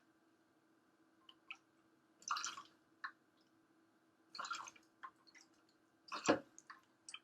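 Dry gin being poured into a cocktail shaker in several short splashes, with small taps between them and a louder knock about six seconds in.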